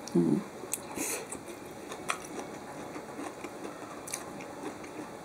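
A person eating: a forkful of soft food taken and chewed, with a few small wet mouth clicks now and then.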